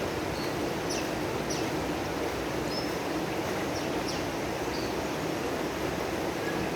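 Steady rush of running water from a koi pond, with small birds giving short high chirps over it, several in the first five seconds.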